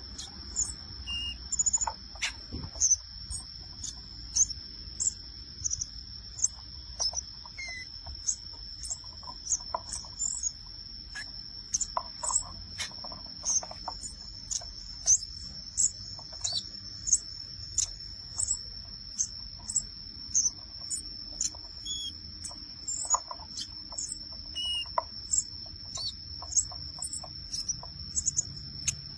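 A small songbird, the 'api-api' or 'Avatar mini' of Indonesian bird-keepers, giving short, high, scattered chirps and ticks over a steady high-pitched insect trill.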